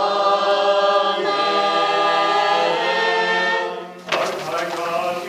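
Church choir singing a held, chant-like sung response of a Byzantine-rite litany (ekteny), ending about four seconds in; a man's chanting voice then takes up the next petition.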